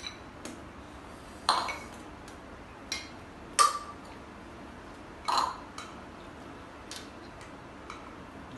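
Tableware clinking during eating: three louder clinks about one and a half, three and a half and five seconds in, with lighter taps between.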